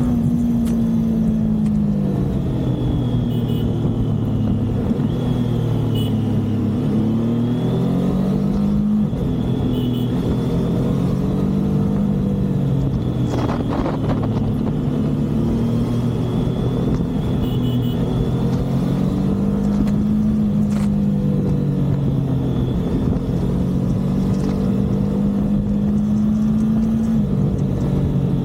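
Triumph motorcycle engine running while riding. Its pitch rises and falls several times as it speeds up and eases off, over a steady low rumble.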